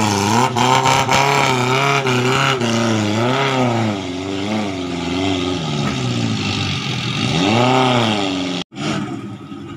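Small off-road 4x4's engine revving up and down under load as it pushes through a shallow muddy creek, its pitch rising and falling again and again. It cuts off abruptly near the end.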